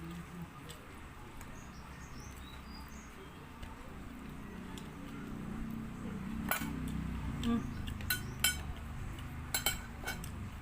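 Eating utensils clinking against a plate, several sharp clinks in the second half over a low background.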